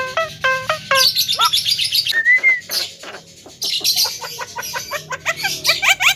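Javan myna calling loudly: a fast run of chirps, a single whistled note about two seconds in, then more rapid chirping that settles into an even series of quick sweeping notes near the end.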